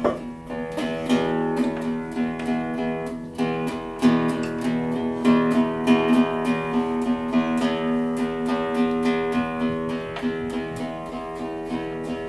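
Acoustic guitar strummed and picked, a steady run of ringing chords with frequent strokes across the strings, growing louder in the first second.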